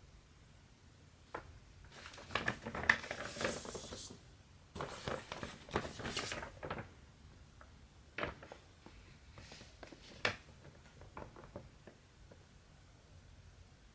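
Hands working a cross-stitch: the cotton fabric and thread rustle in two bursts of a second or two each, with a few soft clicks and taps in between.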